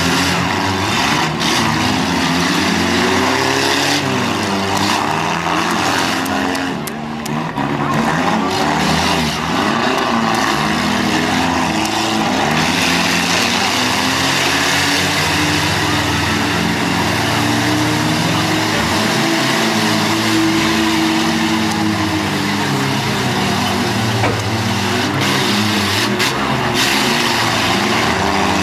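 Several demolition derby cars' engines running and revving together, their pitches rising and falling over one another without a break.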